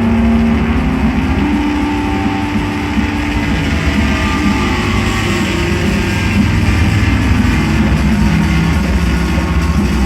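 Loud live psychedelic drone-noise music: a dense, unbroken wall of distorted noise over a heavy low drone, with held tones shifting pitch now and then in the low-middle range.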